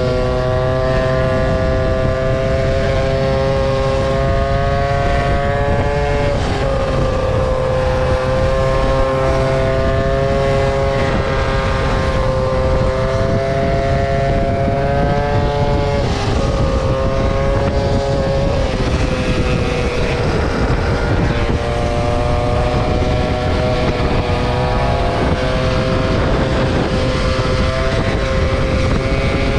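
Motor scooter engine running steadily at riding speed, its pitch shifting slightly a few times as the throttle changes, over low rumbling wind and road noise.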